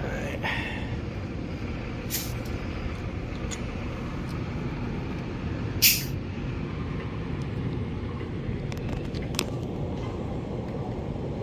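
Steady low rumble of background machinery, broken by a few short, sharp hisses, the loudest about six seconds in.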